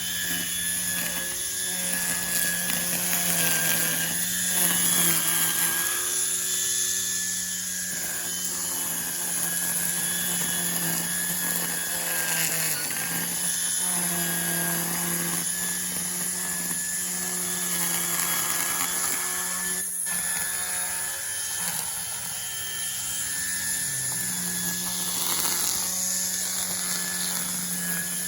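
String trimmer running hard as it cuts grass, a steady high drone whose speed dips briefly now and then, about halfway through and again near the end.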